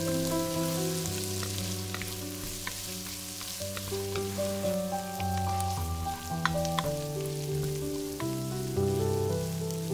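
Chopped onions and green bell peppers sizzling in a pot as a wooden spoon stirs them, with a few light clicks of the spoon against the pot. Background music plays throughout.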